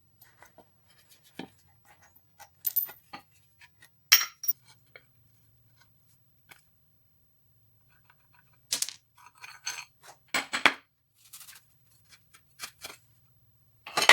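Metal parts and hand tools being handled on a workbench: scattered clinks, taps and short scrapes, some ringing briefly, in irregular clusters with quiet gaps between.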